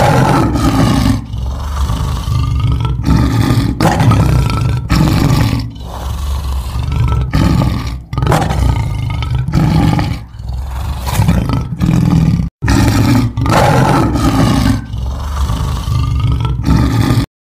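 Lion roaring, a long series of loud, deep roars one after another, with a brief break about twelve and a half seconds in.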